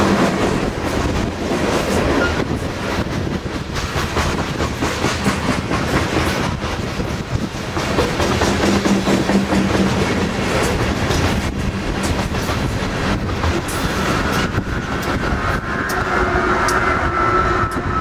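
Loaded open-top coal cars of a freight train rolling past, steel wheels clicking and clattering over the rail joints. Near the end the rear distributed-power diesel locomotive goes by, adding a steady engine hum.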